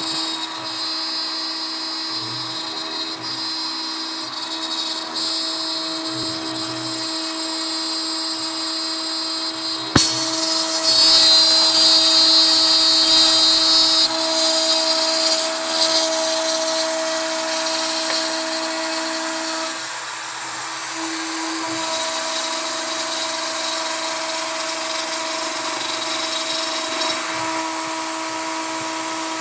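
Kress router spindle on a CNC router running at speed while a 3 mm end mill cuts pine. It is a steady high whine with pitched tones that shift now and then as the machine moves. A sharp click about a third of the way in is followed by several seconds of louder, harsher cutting.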